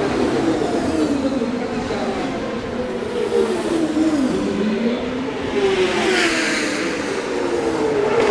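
Racing superbike motorcycles at high revs on the circuit, several engines overlapping, their pitch rising and falling through gear changes as they pass, with one passing closer and louder about six seconds in.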